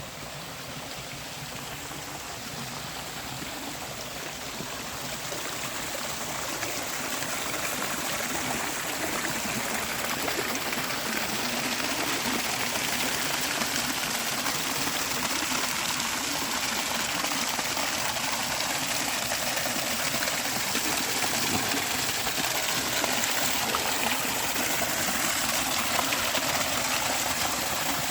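Creek water rushing over small waterfalls and cascades, a steady hiss-like rush that grows louder over the first ten seconds or so and then holds steady.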